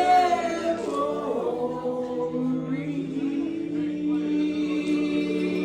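Bluegrass vocal group singing in close multi-part harmony with no clear instruments, the voices moving between notes for about two seconds and then holding one long sustained chord.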